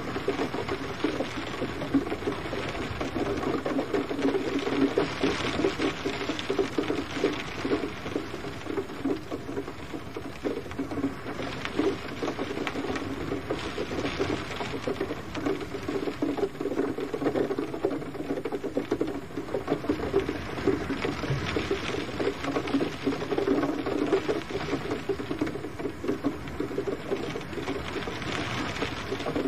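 Gentle rain pattering steadily on a surface: a dense spray of small drop taps that swells and eases slightly every few seconds.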